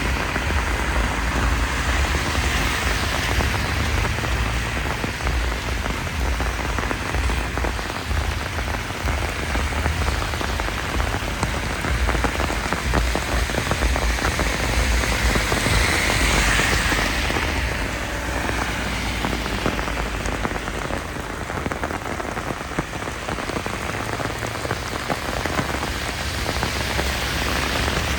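Heavy downpour: a dense, steady hiss of countless raindrops striking surfaces, with a low rumble underneath.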